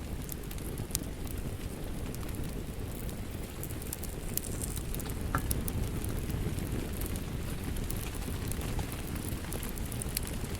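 Wood fire crackling: a steady low rumble of burning with scattered sharp pops and snaps.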